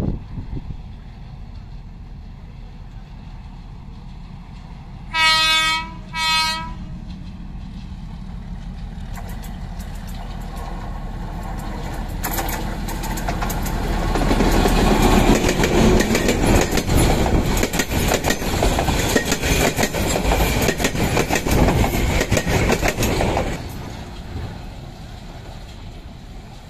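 Bangladesh Railway diesel locomotive sounding its horn twice, a longer blast then a short one. Then a passenger train passes close by, its wheels clattering over the rail joints, growing louder, peaking and then fading away.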